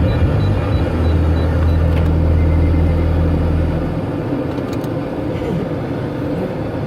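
Automatic car wash machinery running: a steady low hum over a constant hiss, with the hum dropping away about four seconds in.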